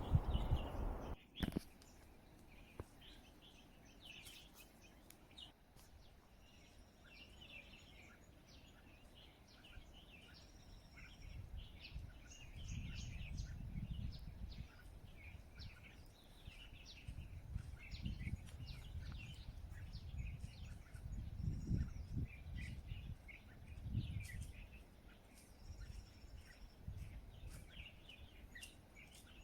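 Wild birds chirping and calling, many short chirps with a few brief high whistles, over wind gusting on the microphone in swells of low rumble.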